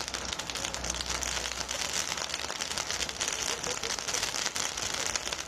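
Large festival bonfire burning, a steady dense crackling of burning wood.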